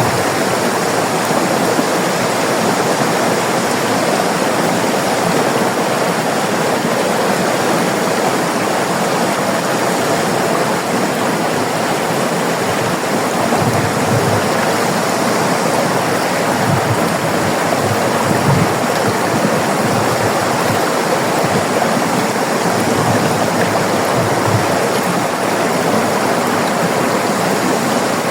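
River water flowing and rushing in a steady stream, with occasional low gurgles.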